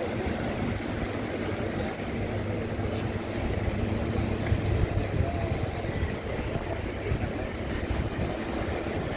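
Steady low rumble of a running engine, with a faint hum that holds level.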